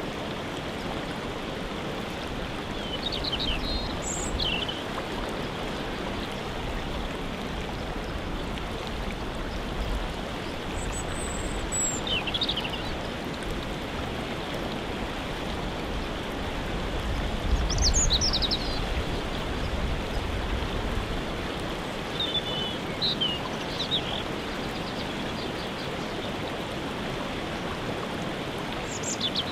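Waterfall rushing steadily, with short bird chirps and calls every few seconds. A low rumble swells briefly a little past the middle.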